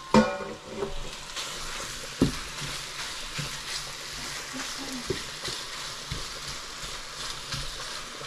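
Thinly sliced marinated beef sizzling in hot oil in a pot as it is stirred and browned: a steady frying hiss, with a few knocks of the stirring utensil against the pot.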